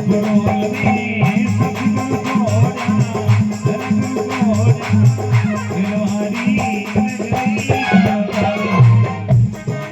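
Instrumental passage of a Marwari folk bhajan: a quick, steady rattling percussion beat over a low bass, with a wavering melody line above.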